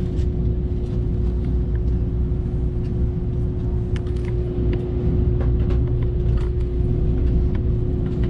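KTX high-speed train heard from inside the passenger cabin while running at speed: a steady low rumble with a constant hum held on one pitch, and scattered faint light clicks.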